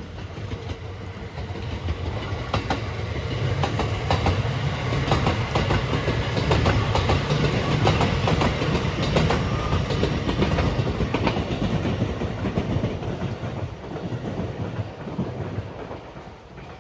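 A train passing close by, wheels clattering over the rail joints, rising as it approaches, loudest about midway, then fading away.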